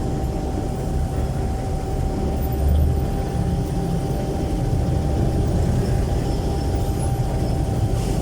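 Jeepney's Isuzu 4BC1 four-cylinder diesel engine running through a very loud exhaust, heard from inside the passenger cabin: a steady, dense low rumble with a faint constant whine above it.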